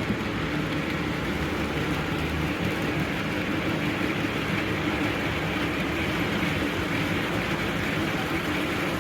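Steady, unchanging mechanical running noise with a low hum, of the kind a train in motion makes.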